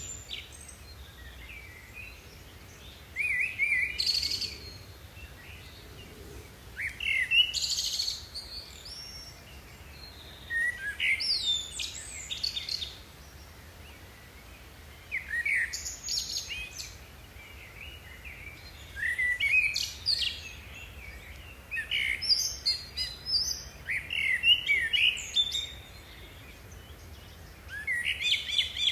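A songbird singing short, chirpy, varied phrases, about seven of them, each a second or two long with a pause of a few seconds between.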